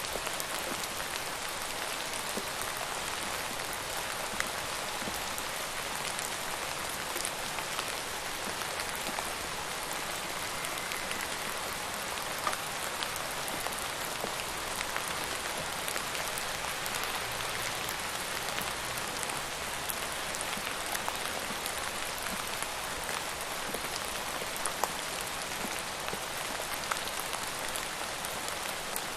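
Steady rain falling on a surface, an even hiss with scattered sharper individual drop hits.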